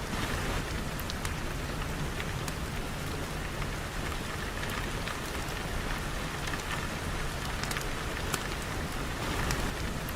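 Steady rain falling, an even hiss with scattered light ticks of individual drops.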